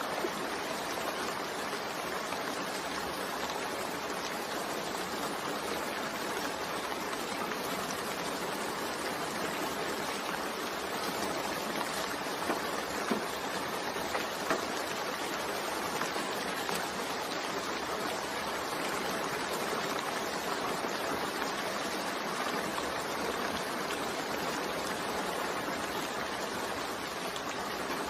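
Steady rain falling, an even hiss of water with a few louder drops or drips about halfway through.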